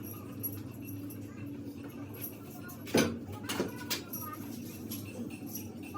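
Two sharp knocks, a loud one about halfway through and a smaller one about half a second later, over a steady low hum.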